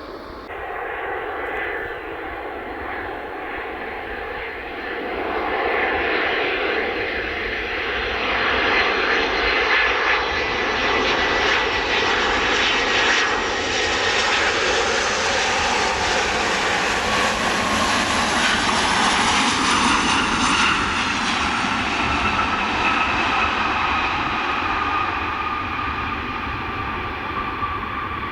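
Jet airliner's engines passing close by, building to their loudest around the middle, with a high whine that slides down in pitch as the aircraft goes past.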